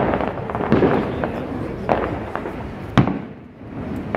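Fireworks display: several aerial shell bursts bang, with continuous crackling and rumble between them; the sharpest bang comes about three seconds in.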